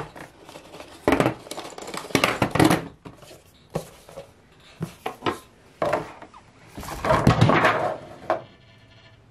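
Packaging and boxed items being handled and opened: irregular rustling, knocks and clatters, with louder bursts about a second, two seconds and seven seconds in.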